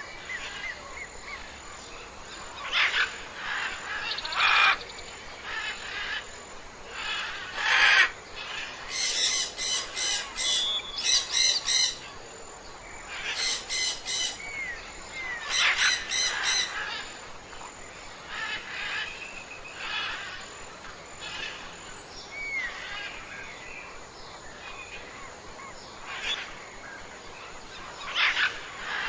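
Birds calling and singing outdoors: loud short calls every few seconds and several bursts of rapid repeated notes, with faint chirps between them.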